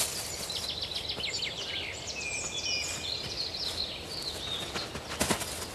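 Forest ambience with a small songbird singing a run of quick, high chirps and trills, some sliding downward, over a steady hiss; a single sharp click comes near the end.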